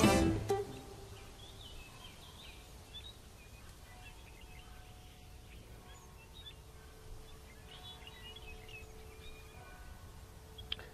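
Faint birdsong: scattered short chirps over a steady open-air hush. Plucked-string music stops about half a second in.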